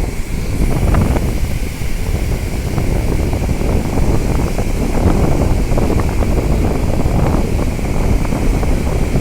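Wind buffeting the microphone over the wash of ocean surf on a beach.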